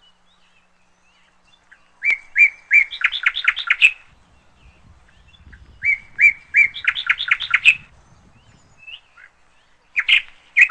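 A songbird singing the same phrase twice, a few separate notes followed by a quick run of notes, then a few short chirps near the end.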